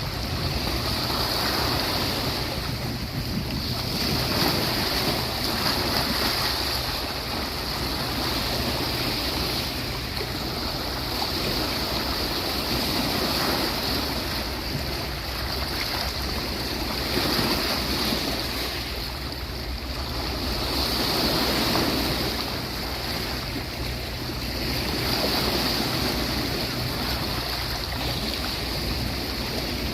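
Sea waves washing onto a beach, the surf swelling and easing every few seconds in a continuous wash.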